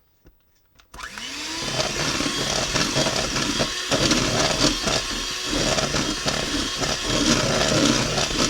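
Electric mixer switched on about a second in: the motor spins up with a rising whine, then runs steadily as its beaters whip canned table cream that has thickened to the trace stage on its way to butter.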